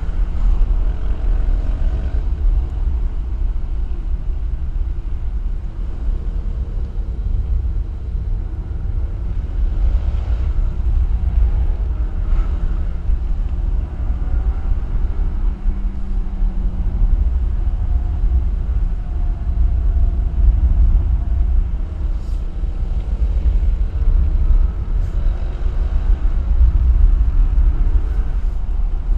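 A moving vehicle's steady low rumble of wind and road noise, with a faint engine note rising and falling with the revs.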